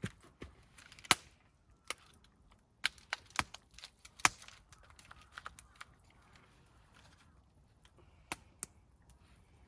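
A series of sharp, irregular knocks and snaps, bunched in the first half with two more near the end.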